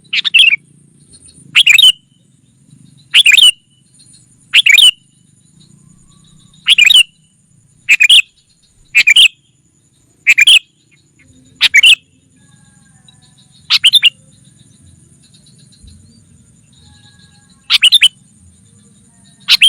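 Sooty-headed bulbul (kutilang) giving short, loud two-note calls again and again, about one every second or so. There is a longer pause about two-thirds of the way through before the calls resume. It is a lure call used to draw in wild bulbuls.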